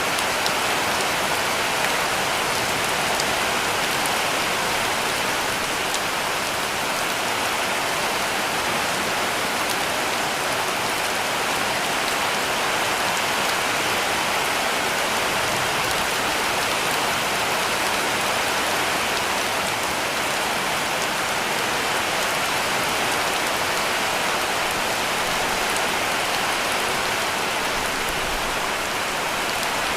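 Heavy rain falling steadily on a cabin roof: a dense, even hiss that holds the same level throughout.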